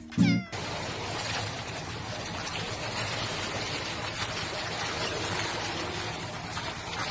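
A domestic cat's short meow in the first half-second, cut off suddenly, followed by a steady even hiss of background noise.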